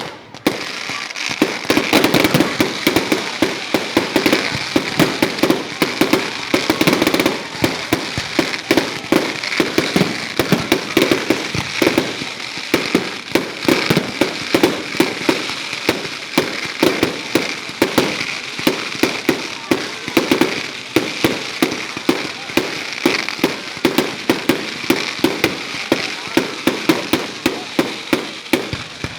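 Fireworks going off in a long, dense run of rapid bangs and crackles with no break.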